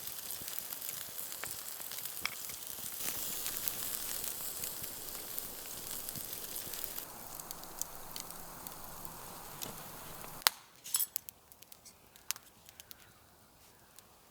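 Food sizzling steadily as it cooks over a campfire. The sizzle cuts off suddenly about ten seconds in, with a sharp click, and a few light clicks and clinks follow.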